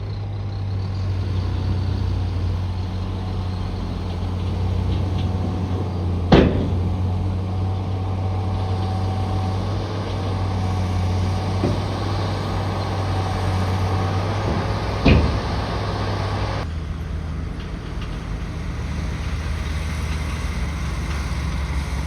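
Bulldozer's diesel engine running steadily, with two loud sharp bangs, one about a quarter of the way in and one about two-thirds through, and a fainter knock between them. The engine sound changes abruptly near the end.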